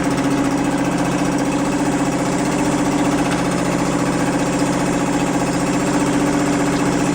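Suzuki 2.5 hp single-cylinder four-stroke outboard motor running steadily at an even speed.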